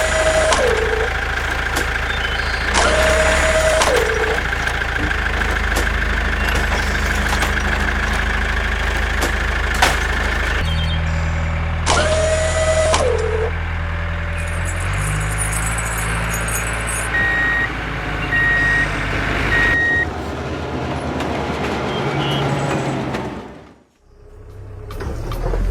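Small tractor engine running steadily, with three identical one-second bursts that each end in a falling tone. A row of three short reversing beeps comes about two thirds of the way through, and the sound fades out briefly just before the end.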